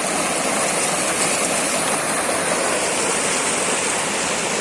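Running water rushing steadily, a loud even hiss without breaks.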